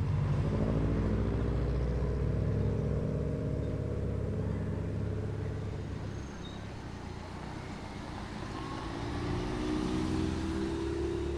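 Performance car engine accelerating, its pitch rising over the first couple of seconds and then fading away; a second engine rises in pitch and grows louder near the end.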